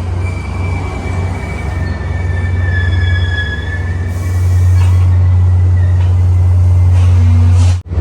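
Passenger train passing with its steel wheels squealing on the rails in several high, thin tones over a steady low rumble. The rumble grows louder about halfway through, and the sound drops out for a moment just before the end.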